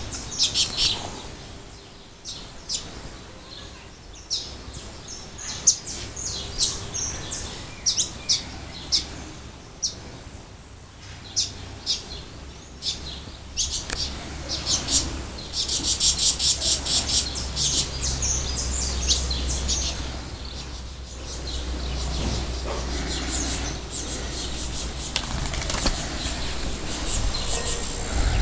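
Canary chirping over and over in short high notes, with a fast trill a little past halfway. A low rumble underneath grows in the second half.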